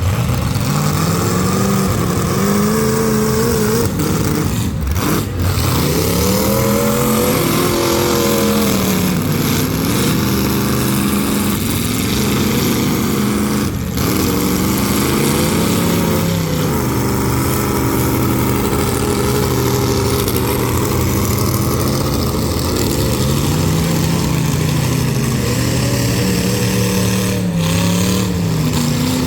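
Engines of full-size demolition derby cars revving hard, several at once, their pitch climbing and falling over and over as the cars accelerate and back off.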